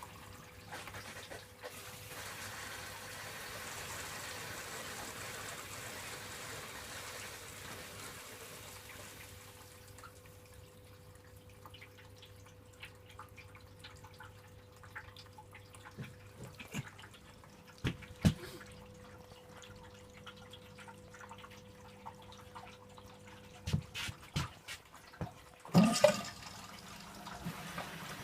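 Electrolux W455H commercial washing machine filling with water at the start of its wash cycle: water rushes in for about ten seconds and then eases to a quieter fill, under a steady hum. Several sharp knocks come in the second half, the loudest near the end.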